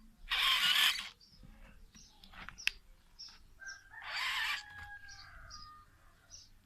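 Birds calling: two loud, harsh calls, each about a second long, one near the start and one in the middle, with short high chirps scattered throughout.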